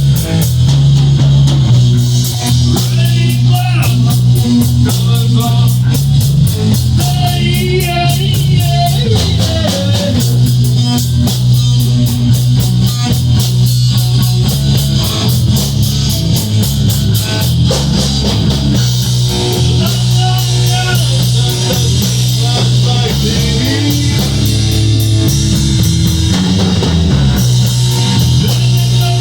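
Rock band playing: guitar over a steady bass line and drum kit with busy cymbals.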